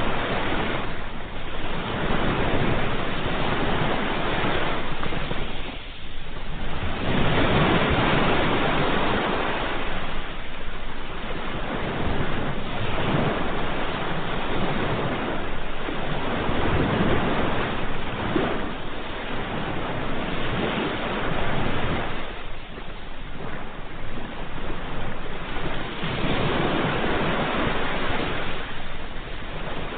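Ocean waves breaking and washing in, a continuous surf that swells and eases every few seconds.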